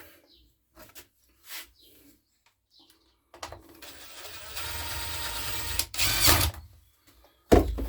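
A few light clicks of parts being handled, then a small power tool's motor runs steadily for about three seconds, louder just before it stops. A loud knock follows near the end.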